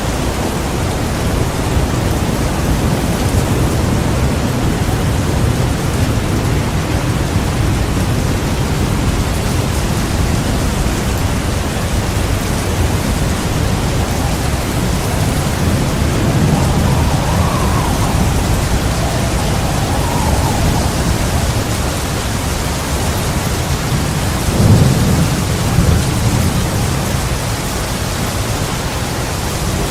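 Heavy rain falling steadily over a constant low rumble of thunder. A louder clap of thunder comes about five seconds before the end.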